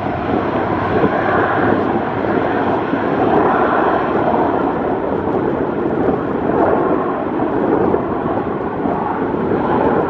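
Steady rushing noise of an airplane's engines mixed with wind buffeting the microphone, swelling and easing a little.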